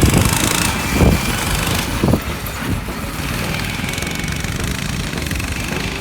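Coleman BT200X mini bike engine running steadily under throttle during a race, with three low thuds in the first two seconds or so.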